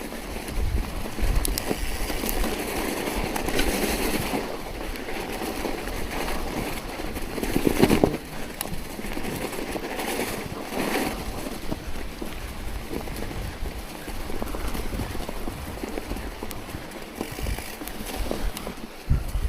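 Snow crunching during a ride through fresh snow, with wind buffeting the microphone; the loudest crunch comes about eight seconds in.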